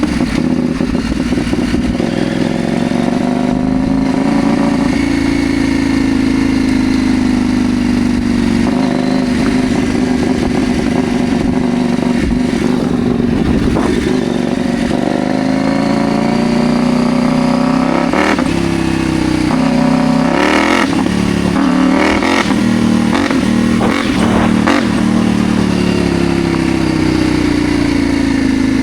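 CFMoto Ibex 800T parallel-twin engine running under way, its pitch rising and falling as the bike accelerates and eases off. About two-thirds of the way through come several sharp knocks and quick dips and rises in engine pitch.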